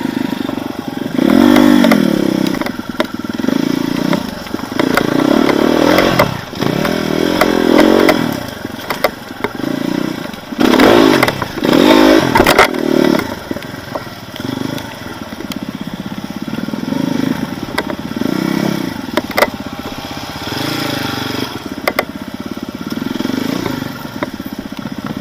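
Off-road vehicle engine revving hard in repeated surges as it works through rough terrain, with scattered clattering knocks; the revving is loudest in the first half and settles to a lower, steadier run about halfway through.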